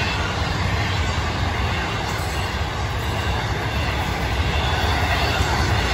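Florida East Coast Railway intermodal freight train passing: its flatcars carrying highway trailers roll by with a steady, deep rumble of steel wheels on the rails.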